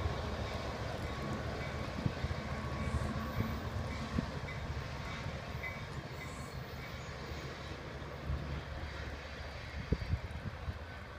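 Departing passenger train's low rumble slowly fading as it pulls away, with a few faint knocks.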